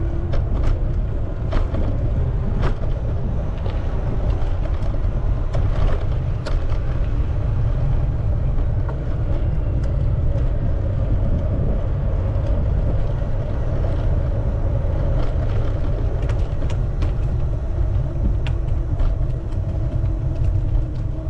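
Wind rumble on the microphone and road noise from a moving bicycle, with a steady hum and scattered clicks and rattles.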